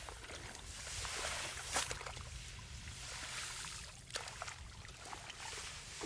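Water sloshing and swishing in swells, with a couple of sharp clicks, one a little under two seconds in and one about four seconds in.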